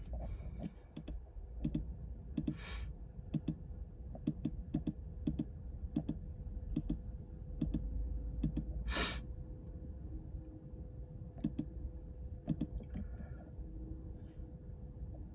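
A series of irregular light clicks and taps, about one or two a second, with two longer, harsher clicks, over a faint steady hum.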